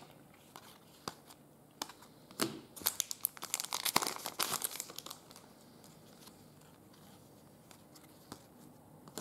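Trading-card pack wrapper and cards being handled: crinkling and tearing, with a dense run of crackles from about two to five seconds in, then near quiet.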